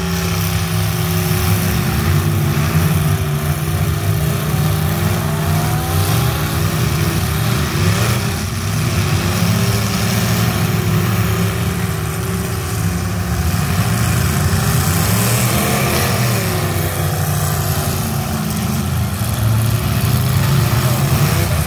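Several demolition derby cars' engines running and revving at once, loud and continuous, with pitch rising and falling as the cars accelerate and ram one another.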